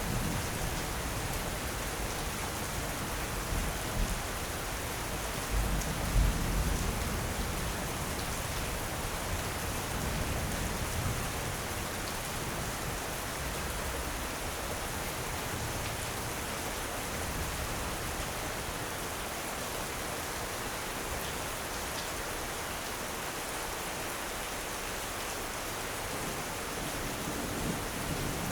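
Steady rain falling with an even hiss. Low rumbles of thunder swell up a few times in the first half, the loudest about six seconds in.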